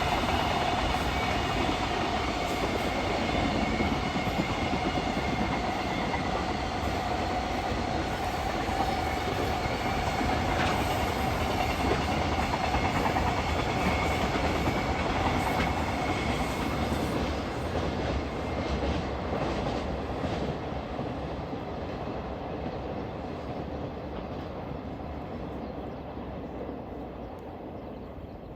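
Freight train running past on the rails: a steady rumble with wheel clatter over the rail joints and a steady whine, fading gradually over the last ten seconds as it moves away.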